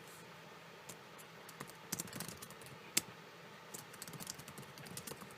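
Keys tapped irregularly on a computer keyboard: quiet typing, with one sharper click about three seconds in.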